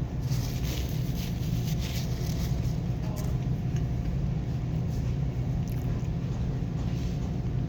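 Steady low hum of a running car engine, heard from inside the cabin, with brief faint crackles and rustles in the first couple of seconds.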